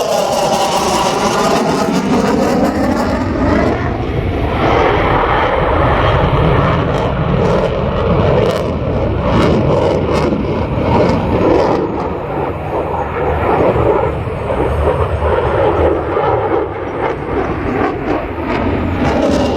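F-35 Lightning II jet passing by, its engine tone sweeping down in pitch over the first few seconds, then a loud, steady jet rumble.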